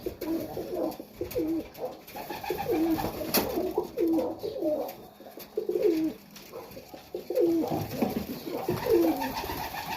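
Several Serbian highflyer pigeons cooing in a small loft, their coos overlapping and repeating, with a single sharp click about three and a half seconds in.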